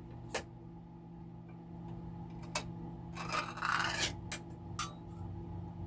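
Glass jar of pasta sauce being handled: a few light clicks and, about three seconds in, a scraping rub lasting about a second, over a steady low hum.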